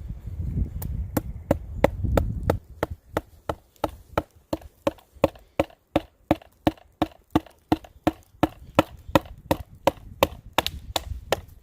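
A stick pounding into dead standing wood with quick, even knocks, about three a second: batoning to split the trunk apart. A low rumble sits under the first couple of seconds.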